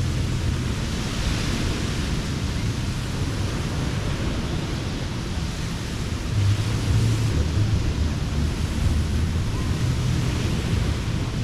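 Ocean surf washing onto a beach, the hiss swelling three times as waves break, with wind rumbling on the microphone.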